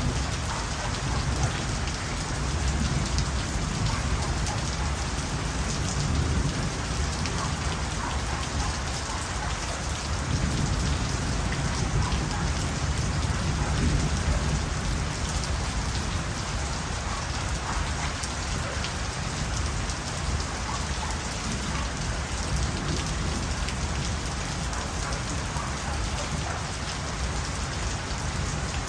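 Steady rain falling, an even patter of drops with a low rumble underneath.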